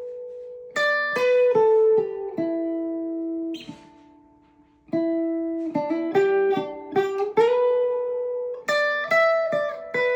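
Sparrow Songbird Elite baritone ukulele, amplified on a clean channel, picking a melody in G with notes ringing on. Just before halfway the playing stops and the sound dies away, with a brief scratchy noise, then the picking resumes.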